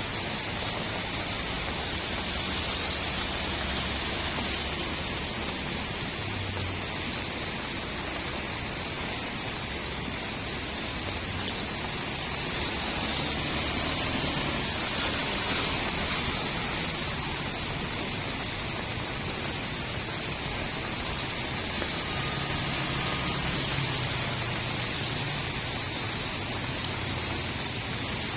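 Steady rain falling on a street, with gurgling runoff water. It swells somewhat louder for a few seconds about twelve seconds in.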